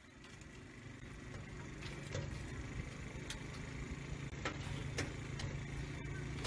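A low, steady vehicle rumble that fades in over the first second, with a few scattered sharp clicks.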